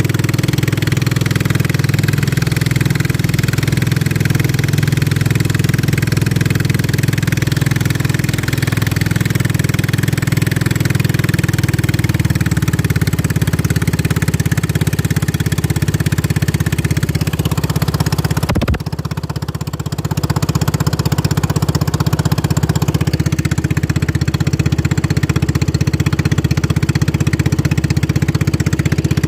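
Racing boat engine running loud and steady at speed, with a brief drop in engine note about two-thirds of the way through before it picks up again.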